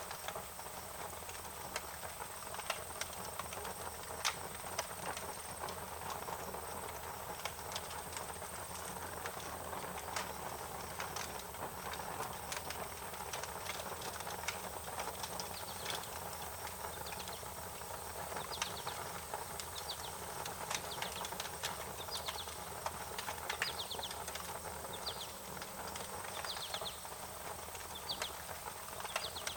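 Wood fire crackling: irregular sharp pops and snaps over a steady hiss. From about halfway on, short high chirps repeat in a loose series.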